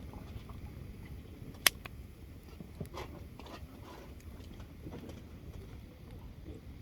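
Wood campfire crackling, with scattered small pops and one sharp, loud pop about a second and a half in, over a low steady rumble.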